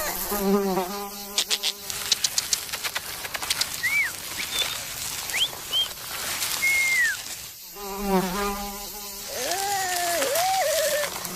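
Cartoon insect buzzing voices whose pitch bends up and down, with a quick run of clicks about a second in and a few short whistled chirps in the middle.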